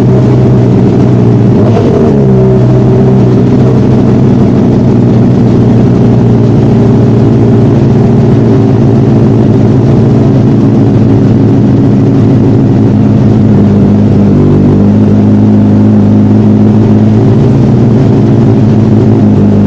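Sportbike engine running loudly through a new aftermarket MGP exhaust, holding a steady speed. The pitch dips briefly about two seconds in and shifts slightly around fifteen seconds in.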